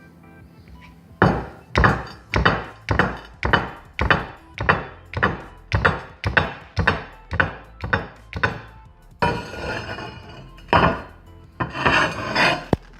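A steady run of hard, sharp blows, about two a second, starting just over a second in and lasting some seven seconds. A clattering, scraping stretch follows, then a few more heavy hits near the end.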